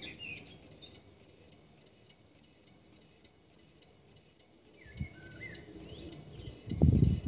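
Birds chirping outdoors: short gliding calls at the start and again about five seconds in, with a low thump near the end.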